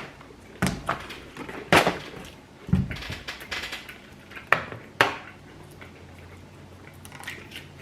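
Takeout food containers and packaging being handled: about five sharp clicks and knocks spread over the first five seconds.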